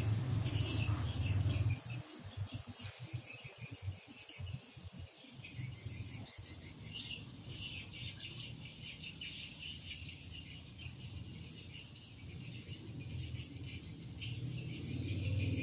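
A bird chirping in short repeated notes, over a high, steady insect trill, with a low rumble during the first two seconds and again near the end.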